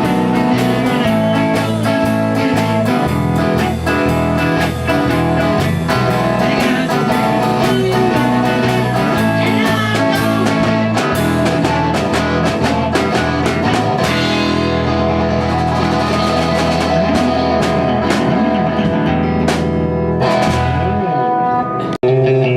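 A rock band playing an instrumental blues-rock passage: guitar over bass and drum kit, without vocals. The music breaks off briefly near the end.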